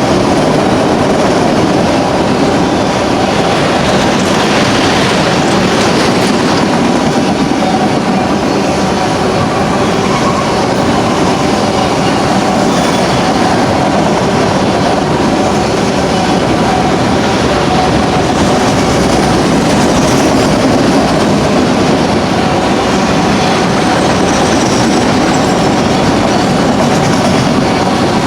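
BNSF autorack freight train rolling past, with loud, steady wheel-on-rail noise and clickety-clack of the cars over the rail joints. Faint high wheel squeal comes in during the second half.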